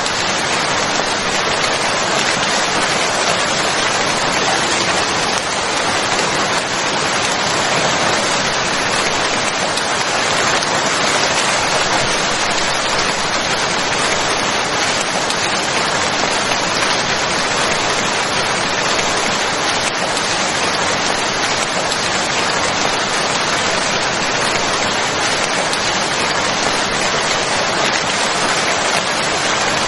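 Steady rain: an even, unbroken hiss of rainfall, as used for white noise.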